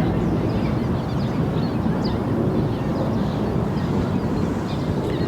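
Outdoor ambience: a steady low rumble with faint high chirps scattered through it.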